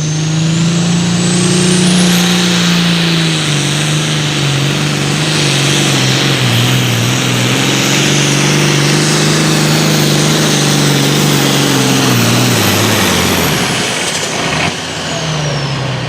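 Turbocharged diesel Super Farm pulling tractor at full throttle on a pull, its engine note steady under load and a high turbo whistle climbing to a shrill held pitch. About 13 seconds in, the whistle falls away and the engine winds down as the throttle comes off.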